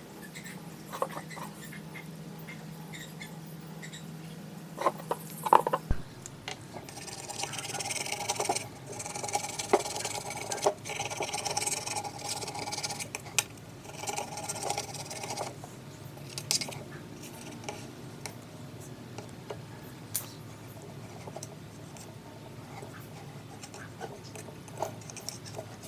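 Hand scraping and rubbing on a hard surface, with scattered clicks and knocks. A longer stretch of hissy scraping runs through the middle, broken by short pauses.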